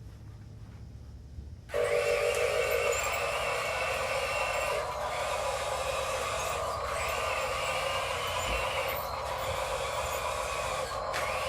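Small electric motor and gear drive of a radio-controlled construction model starting up suddenly about two seconds in and running with a steady whine, dipping briefly a few times.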